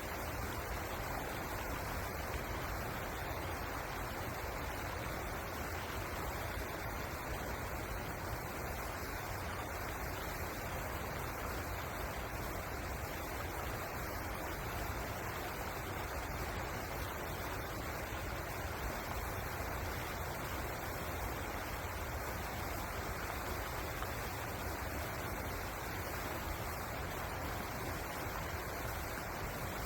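Pozer River water rushing, a steady even roar of flowing water with a low rumble underneath.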